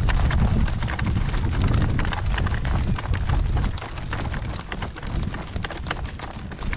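A horse walking in harness across a field: a run of irregular hoofbeats and small knocks over a steady low rumble, which eases about four seconds in.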